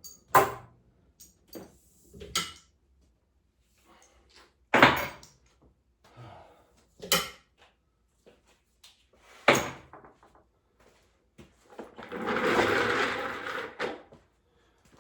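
Five separate knocks or clunks, each a couple of seconds apart, then about two seconds of scraping or rustling noise near the end.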